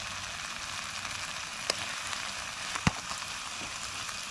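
Curry masala sizzling steadily in a kadai as a ladle stirs it, with two sharp clinks of the ladle against the pan, the louder one about three seconds in.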